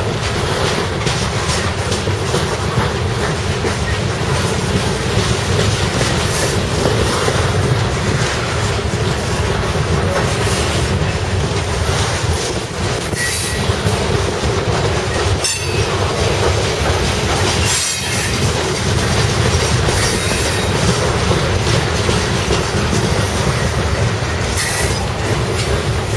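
CSX freight train of ore cars rolling past, a loud, steady rumble of car wheels on the rails.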